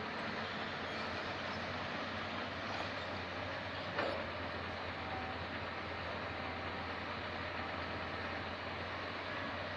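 Diesel engines of a hydraulic excavator loading soil into a ten-wheel dump truck, running steadily, with one sharp knock about four seconds in.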